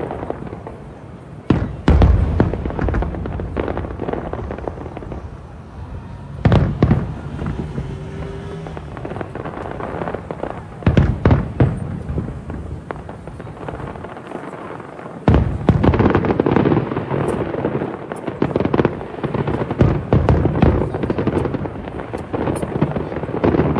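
A fireworks display: aerial shells bursting with deep booms and crackling, several separate bursts in the first half, then a dense volley of rapid bangs and crackle from about two-thirds of the way in.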